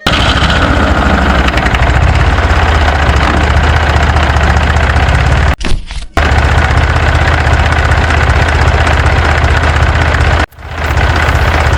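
Engine running steadily at idle with a heavy low rumble, breaking off briefly twice, about five and a half and ten and a half seconds in.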